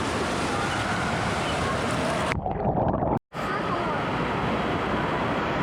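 Indoor waterpark din: a steady wash of rushing, splashing water with crowd voices mixed in. It cuts off suddenly about three seconds in, with a moment of silence before the water noise comes back.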